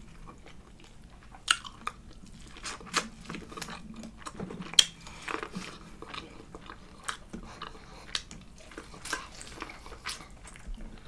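Close-up chewing and biting of a person eating, with scattered sharp clicks every second or two.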